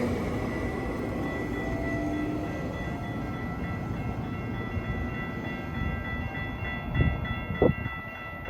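Stadler FLIRT3 diesel multiple unit running on the track: a rumble that slowly eases off, with a steady high tone held above it. A few sharp thumps come near the end.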